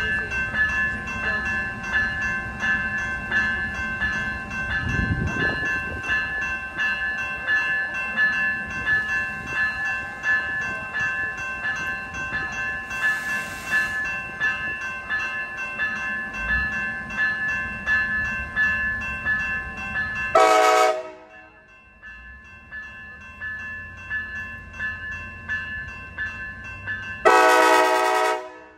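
A train passing with a steady rumble and a continuous high ringing tone, then two train horn blasts: a short one about twenty seconds in, as the rumble drops away, and a longer one near the end.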